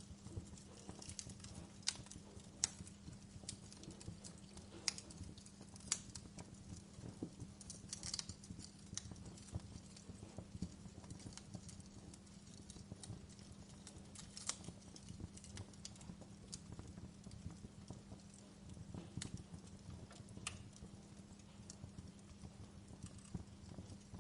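Wood log fire crackling in a fireplace: irregular sharp pops and snaps, a few louder ones standing out, over a steady low hum.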